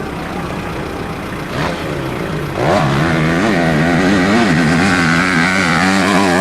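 Motocross dirt bike engine: a steady running hum, then from about two and a half seconds in a much louder, close engine note whose pitch wavers rapidly up and down as the throttle is worked.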